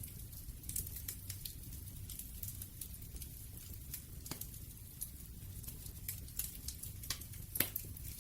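Wood fire crackling: a steady low rumble of burning with frequent small crackles and a couple of louder pops, about four and seven and a half seconds in.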